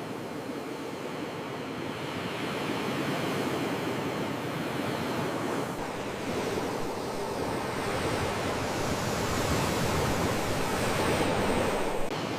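Sea waves washing onto the shore, a steady wash that swells louder twice as waves come in. A short sharp click sounds near the end.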